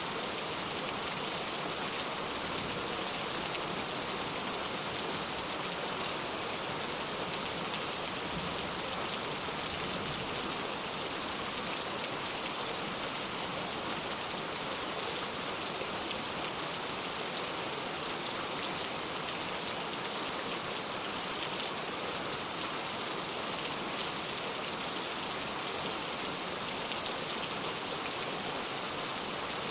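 Steady rain falling on the ground, a dense even patter of many small drop impacts with no lulls.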